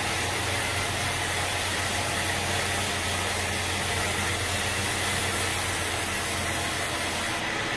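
An engine running steadily at an even speed, with a low hum under a broad hiss; the high part of the hiss drops away just before the end.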